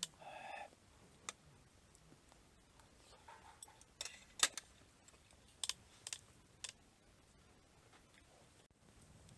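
A brief murmur of voice at the very start, then a few scattered sharp clicks and taps, the loudest about four and a half seconds in.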